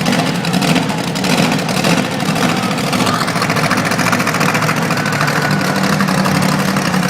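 Monster truck engine idling steadily and loud.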